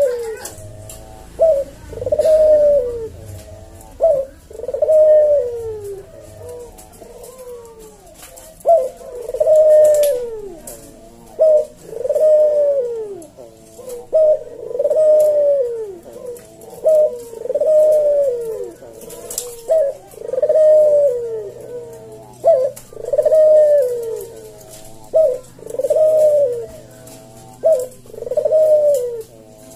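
Puter (domestic ringneck dove) cooing over and over, each phrase a short sharp note followed by a longer falling coo, about every two and a half seconds.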